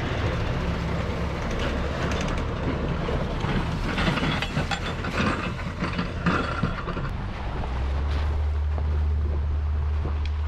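A vehicle driving, with a steady low drone. A big truck passes close by, bringing a stretch of clattering and rattling about four to seven seconds in.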